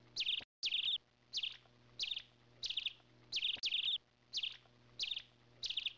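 Small bird chirping over and over: short, high, trilled chirps about three every two seconds, with the sound cutting out for an instant about half a second in.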